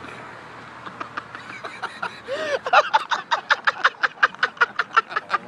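A person laughing hysterically. Quiet snickers come first, then from about two seconds in a fast run of cackling, breathy bursts, about five a second.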